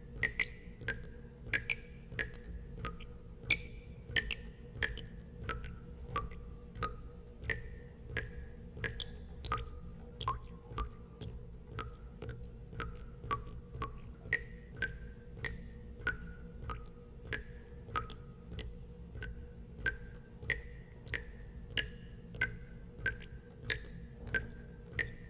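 Water drops falling into water one after another, nearly two a second, each a short plink whose pitch varies from drop to drop, over a steady low hum.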